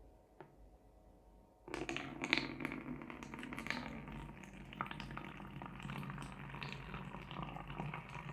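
Water being poured into a plastic 1-litre bird-cage water bottle, starting abruptly about two seconds in and running on steadily with small irregular splashes.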